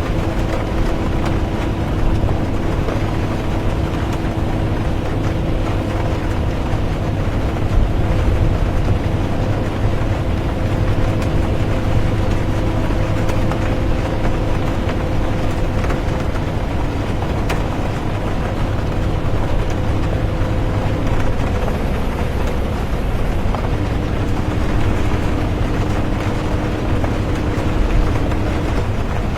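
Bus interior ambience: the bus engine runs with a steady hum under road and tyre noise, mixed with rain. The engine note shifts slightly about two-thirds of the way through.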